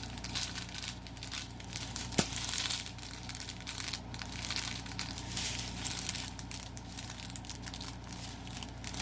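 Small plastic bags of diamond painting drills being handled and crinkled while they are sorted through, with one sharp click about two seconds in.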